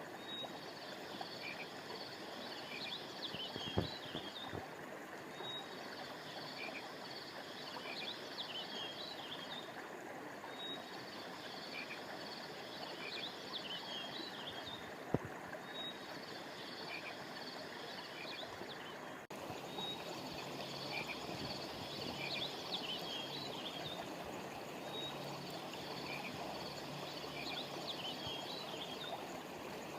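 Steady rush of a flowing river under a chorus of frogs and insects, whose high chirping comes in bouts every few seconds. Two sharp clicks sound, about four and fifteen seconds in, and a brief dropout comes about two-thirds of the way through.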